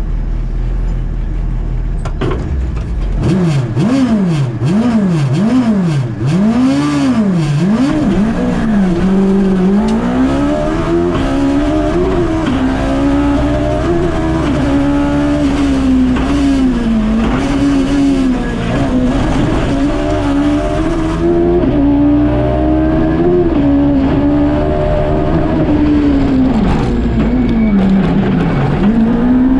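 Suzuki Hayabusa (GSX1300R) inline-four motorcycle engine in a KP61 Toyota Starlet, heard from inside the car. It idles for about three seconds, then the car launches, the revs rising and falling sharply several times as it pulls away. After that it is held at high revs, wavering up and down, with a deeper dip near the end.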